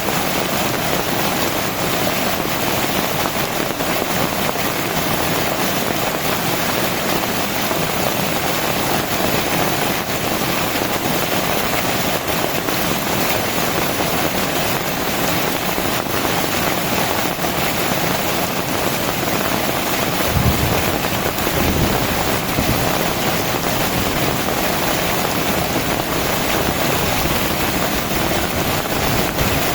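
Heavy rain falling in a steady, dense downpour. About two-thirds of the way through, a brief low rumble rises under it.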